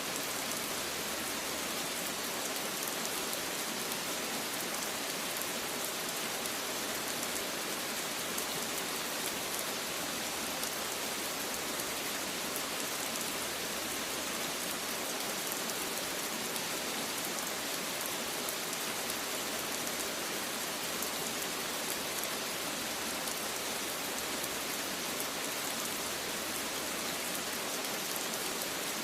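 Steady rain falling, a constant even hiss with no distinct drops or thunder standing out.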